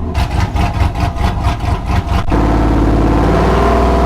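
A truck's 5.3-litre LT V8 running loud and choppy, with rapid, uneven pops for about two seconds. It then evens out into a steady run.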